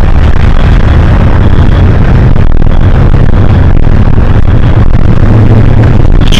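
Hino HS8JRVL city bus running, heard from inside: a steady engine drone with road and cabin noise.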